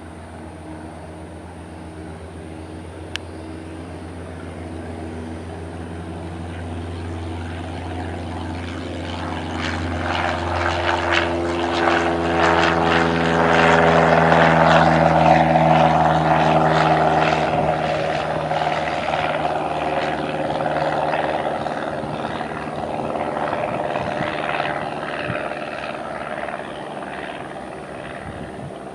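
Cessna 172 single-engine propeller plane at full takeoff power passing by: its engine and propeller drone grows louder, is loudest about halfway through, then fades as it climbs away.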